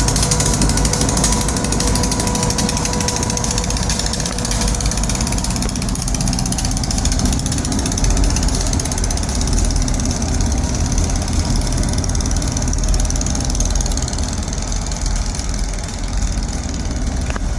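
Diesel locomotives running with a steady low engine rumble, and a faint steady whine over it for the first few seconds.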